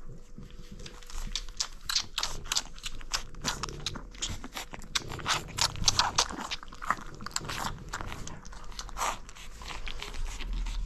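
French bulldog puppies chewing, a dense, uneven run of small crunches and clicks.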